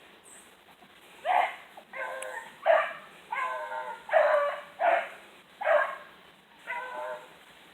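Hunting hounds barking on a chase, about eight barks under a second apart, one near the middle drawn out longer and bending in pitch.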